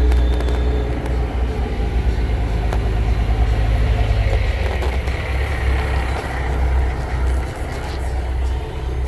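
Caterpillar C15 inline-six diesel in a 2005 Peterbilt 379 truck tractor, running with a steady low drone.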